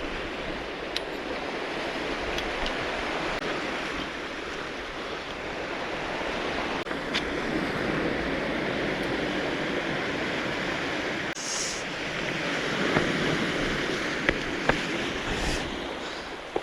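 Sea waves washing on a cobble beach, a steady rushing noise, with a few faint clicks and knocks.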